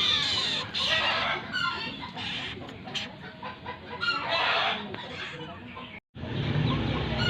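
Birds calling in short, harsh, chattering notes. About six seconds in the sound cuts out abruptly and comes back with a steady low hum underneath.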